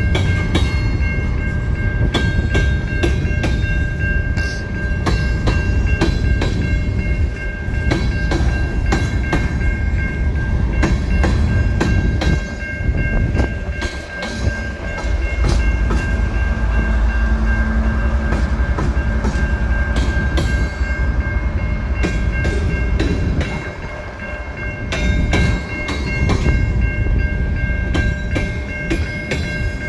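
Covered hopper cars of a long freight train rolling past close by: steel wheels rumbling and clicking over the rail joints. A steady high-pitched ringing tone runs over it.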